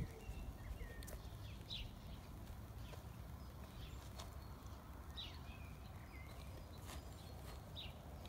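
Birds chirping outdoors, short high calls every second or two, over a faint low rumble.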